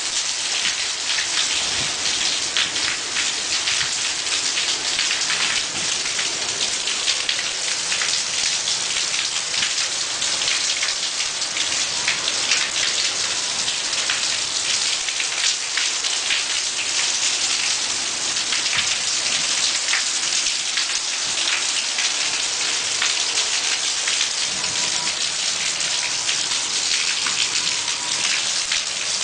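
Heavy rain with hail: a steady hiss of rain on surfaces, peppered throughout with many sharp ticks of hailstones striking.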